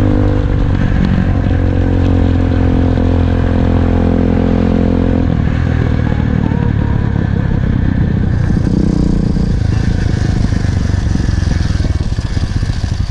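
SSR 125cc dirt bike's four-stroke single-cylinder engine running while being ridden, loud and steady in pitch. About five seconds in, the steady engine note gives way to a rougher, noisier sound.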